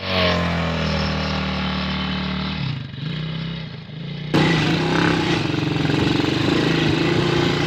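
Quad bike (ATV) engine running steadily, then an abrupt change just over four seconds in to a pulsing, idling engine note.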